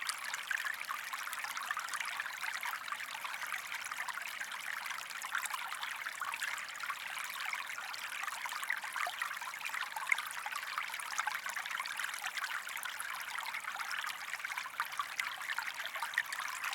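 Flowing-water background track: a small stream trickling and gurgling steadily.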